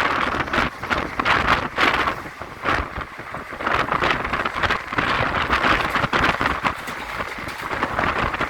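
Passenger train running at speed, heard from on board, with wind buffeting the microphone in uneven gusts.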